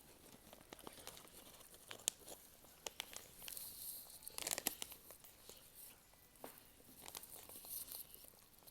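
Faint crinkling and rustling of a plastic snack packet being handled, with scattered sharp clicks; the busiest crinkling comes about three and a half to five seconds in and again near the end.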